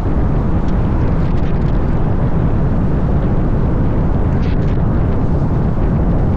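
Steady, loud, low rumble of wind and road noise from a van on the move.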